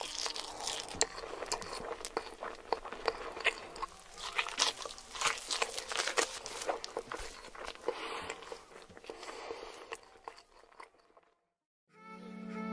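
Close-miked chewing of a giant salmon nigiri: dense small mouth clicks and smacks that fade out about eleven seconds in. Music begins right at the end.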